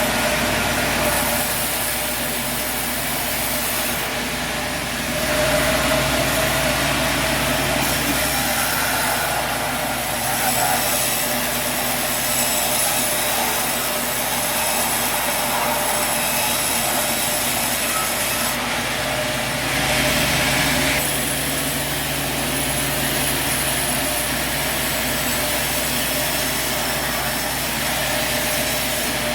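Sawmill saw cutting through a log: a steady, continuous sawing noise over the running machine, swelling slightly about five seconds in and again near two-thirds of the way through.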